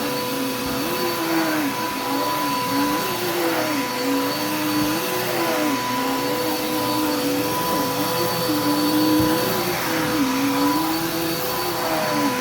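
Vacuum cleaner running on carpet, its hum rising and falling in pitch every second or so over a steady motor whine.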